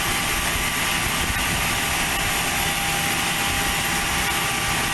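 Light propeller aircraft's engine running steadily, a continuous drone with a few faint steady tones through it.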